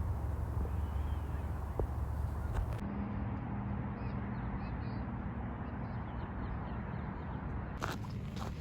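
Outdoor ambience: a steady low rumble at first, then after an abrupt change about three seconds in, faint bird chirps over a quieter background.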